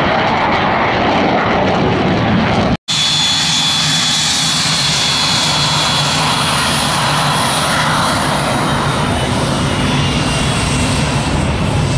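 Fixed-wing aircraft engine running loud. The sound drops out for an instant about three seconds in, then comes back with a high whine that falls slowly in pitch over the engine noise.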